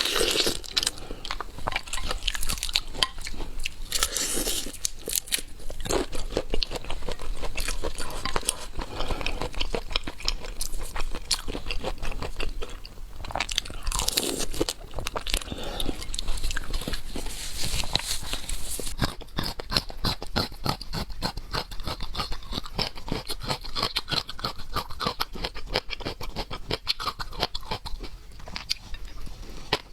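A person chewing and biting seafood, with a dense run of crisp crunching clicks.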